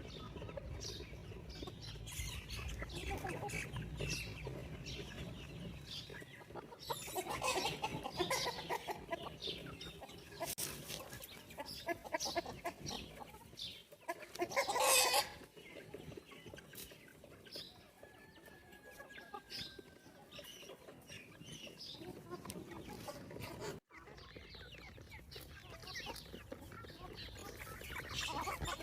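Free-range chickens clucking, with short calls scattered throughout and one louder call lasting about a second about halfway through.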